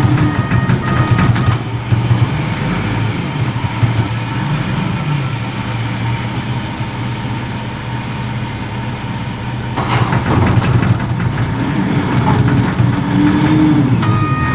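Reach stacker's diesel engine running with a steady low drone. About ten seconds in the machine gets busier and louder, and a whine rises and falls near the end as it works.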